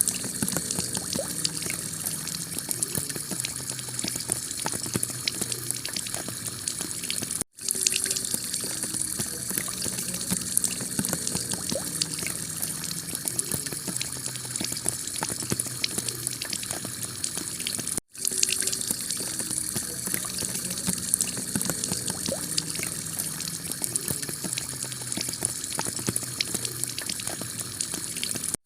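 Heavy rain falling on a clay-tiled roof: a steady hiss packed with countless small drop hits. It cuts out for an instant twice, about a third and two thirds of the way through.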